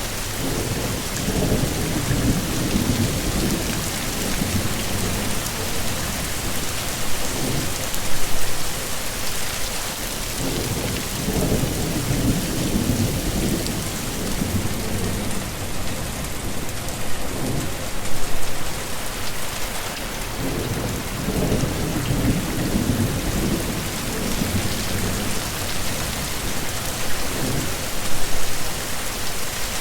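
Heavy rain falling steadily, with low rumbles of thunder swelling and fading again and again, the strongest about every ten seconds.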